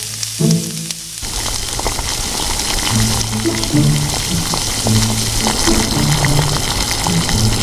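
Background music with a slow run of held low notes over the steady sizzle of a tomato mixture cooking in an iron kadai on a wood fire. The sizzling comes up about a second in, with small crackles through it.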